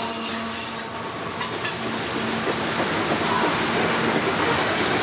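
Freight train of steel coal hopper cars rolling past close by: steady rumble and clatter of the wheels on the rails, with a couple of sharper clacks about a second and a half in.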